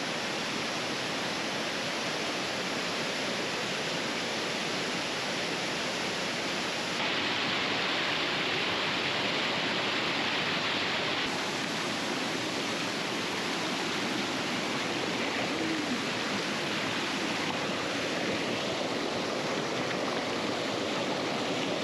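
Waterfall rushing: a steady, even splash and hiss of falling water. It grows a little brighter and louder for a few seconds partway through.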